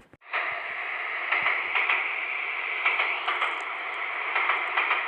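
Train running sound effect: a steady rushing, clattering noise that starts just after a short gap.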